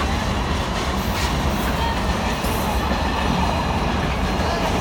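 Freight train hauled by a Class 66 diesel locomotive passing close by, a steady heavy rumble with faint clicks from the wheels.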